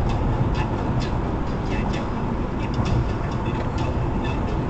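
Steady road and tyre noise from an electric car cruising at freeway speed, heard from inside the cabin, with scattered light ticks.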